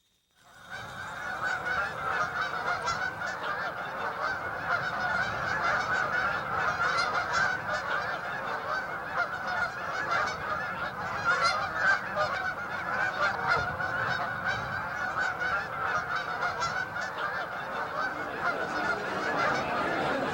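A large flock of geese honking, many calls overlapping into a continuous din, starting abruptly about half a second in.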